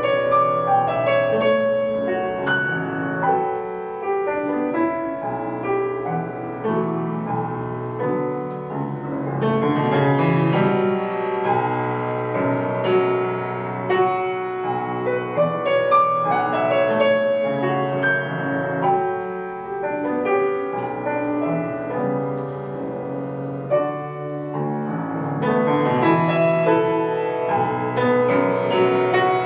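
Piano playing a passage of contemporary classical music, a flow of struck notes and chords that grows denser and fuller about ten seconds in and again near the end.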